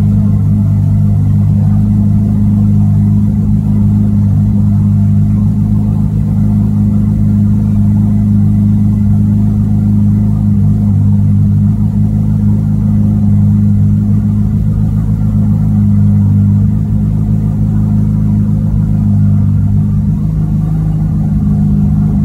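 Ferrari F8 Spider's twin-turbo V8 idling with a steady low drone while its retractable hard top closes.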